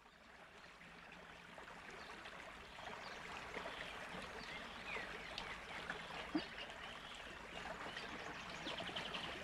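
Outdoor ambience fading in over the first few seconds: a steady, water-like rushing hiss with many scattered short chirps and clicks.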